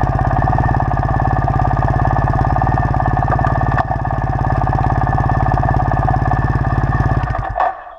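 Triumph Thruxton parallel-twin motorcycle engine running steadily with a quick, even beat, then stopping abruptly near the end.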